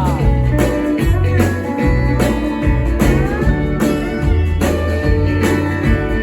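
A band playing an instrumental passage: plucked string instruments over a steady bass and drum beat, with a couple of notes sliding in pitch.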